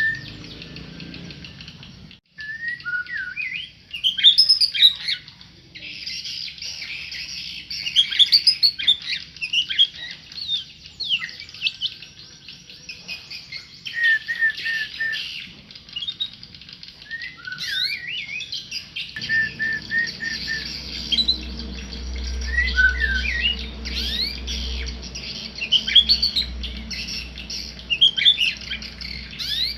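A tame murai songbird singing a varied stream of clear whistled phrases, with sliding notes and quick runs of repeated notes. A low hum comes in about two-thirds of the way through.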